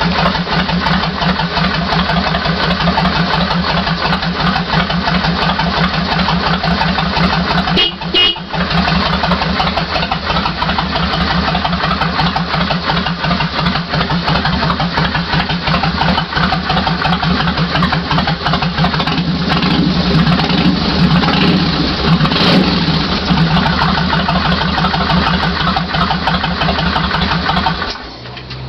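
2004 Kawasaki Vulcan 1500 Classic's V-twin running at a steady idle through Vance & Hines pipes, with a Hypercharger intake. The sound cuts off sharply near the end.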